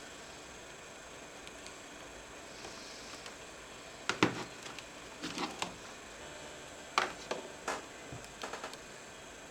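Scattered sharp clicks and knocks over a steady faint hiss, one group about four seconds in and more from about five to eight and a half seconds: hard plastic and metal parts and tools handled while a laptop is taken apart.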